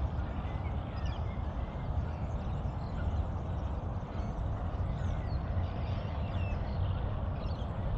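Outdoor ambience: a steady low rumble with faint, scattered bird calls.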